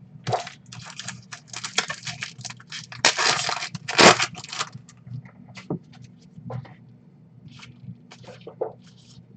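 Trading card packs torn open and the cards handled: crackling, tearing foil wrapper, loudest about three to four seconds in, then scattered short crinkles and rustles over a low steady hum.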